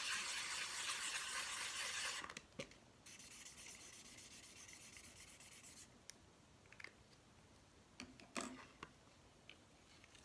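Colouring on a paper plate: a dense, rapid rubbing of the tip across the paper. It stops about two seconds in, a lighter stretch of colouring runs until about six seconds, then a few light clicks and knocks of handling follow.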